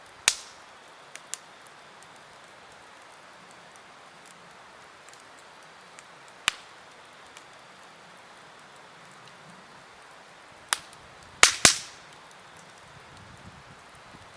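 Wood campfire crackling: sharp pops of burning wood over a steady hiss. One loud pop comes right at the start and another about halfway, and a quick cluster of three comes near the end.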